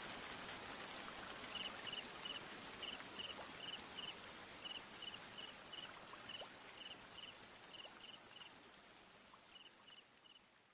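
A cricket chirping in short, evenly repeated high pulses, about three a second, over a steady hiss of falling water. The mix fades out near the end.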